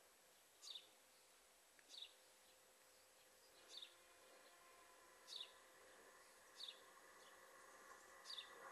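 A bird repeating a short, falling, high chirp six times, about every second and a half, faint. From about halfway through, a faint hum of several steady tones slowly grows louder: a train approaching in the distance.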